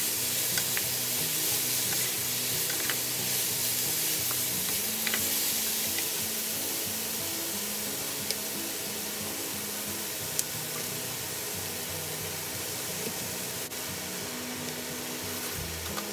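Fish cake strips and sliced vegetables sizzling in a hot frying pan, the hiss slowly dying down, with a few light sharp clicks. Soft background music plays throughout.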